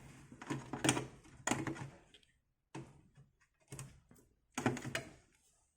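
Handling noises from fitting a ribbon cable into a computer's floppy drive: plastic clicks, scrapes and knocks. They come in a busy cluster over the first two seconds, then three separate knocks about a second apart.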